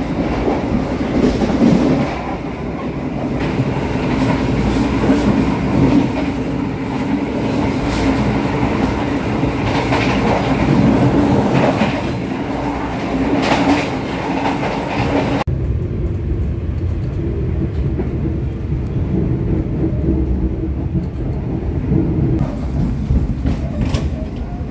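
Argo Cheribon passenger train running, heard from on board: a steady rumble and hum with sharp clicks of the wheels over rail joints. About fifteen seconds in, the sound changes abruptly to a duller, quieter rumble without the hiss, and a few clicks return near the end.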